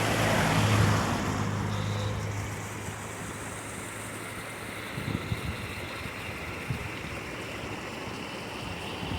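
Steady rush of water, with a low engine-like hum that fades out over the first few seconds and a few soft low thuds later on.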